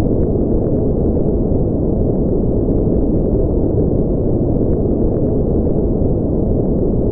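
Steady synthetic noise for sleep, deep and rumbling, with its energy mostly in the low range and nothing in the high range. It is unchanging, with no rhythm or events.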